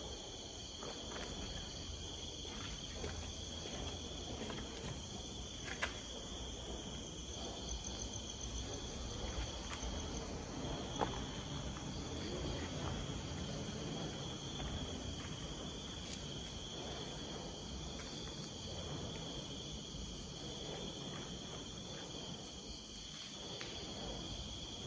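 Crickets trilling in a steady night chorus, one continuous high shrill tone with a fainter, higher band above it. A low rumble and a couple of faint ticks from the moving camera lie underneath.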